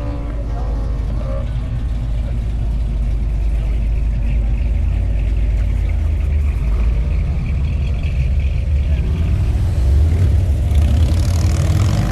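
A car engine running at a low, steady rumble, typical of idling; near the end a rising engine note begins.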